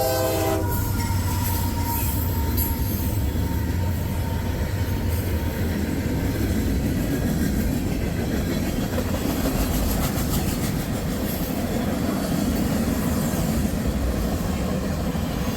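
Freight train's horn chord, which cuts off about half a second in, then the train rumbling past with its cars' wheels running over the rails.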